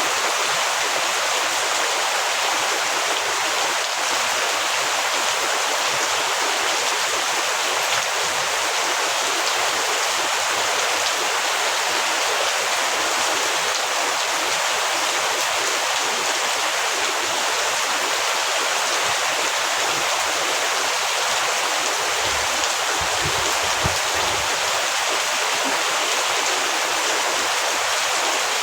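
Heavy rain falling in a steady, unbroken downpour. A brief low rumble comes in about three quarters of the way through.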